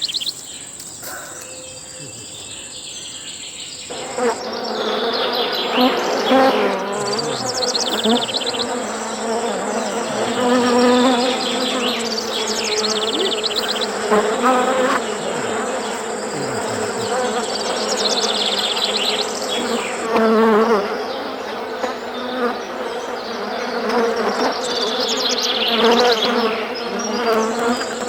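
A swarm of honey bees buzzing in a dense drone around their hive while it is being cut, growing much louder about four seconds in. Repeated high chirps from birds or insects sound over the drone.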